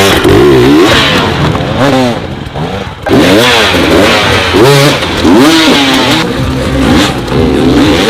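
Motocross bike engines revving hard, the pitch rising and falling again and again with throttle blips and gear changes, with a brief drop in revs about three seconds in.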